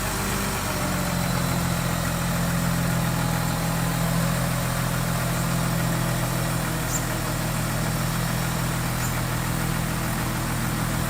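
Heavy-equipment diesel engine running steadily at an even speed, a constant low hum with no revving up or down.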